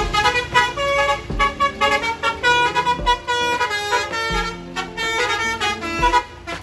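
Bus's basuri musical horn playing a quick melody of short, changing notes.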